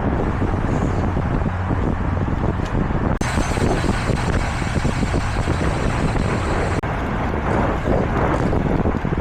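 Highway traffic noise mixed with wind rushing over the microphone of a moving bicycle. A brighter hiss joins about three seconds in and cuts off abruptly about seven seconds in.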